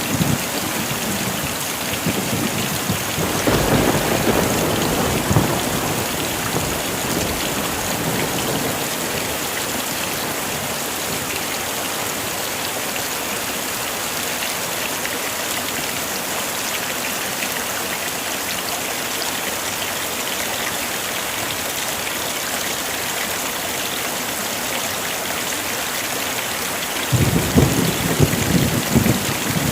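Heavy rain falling steadily, with a roll of thunder about three seconds in and another rumble near the end.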